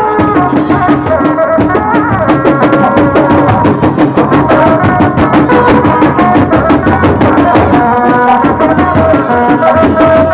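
Traditional Indonesian troupe music of the kind played for kuda lumping and barong attractions: fast, dense drumming with a melody of held, wavering notes over it.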